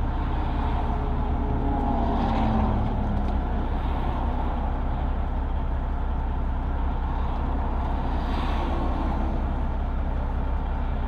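Diesel truck engine, a Detroit Diesel Series 60, idling with a steady low rumble. Traffic swells past twice.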